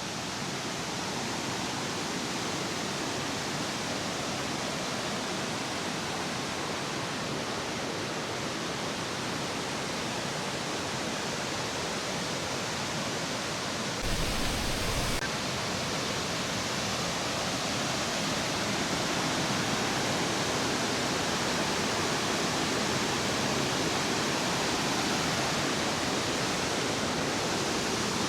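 Steady rushing roar of a large waterfall, with a brief low rumble about halfway through.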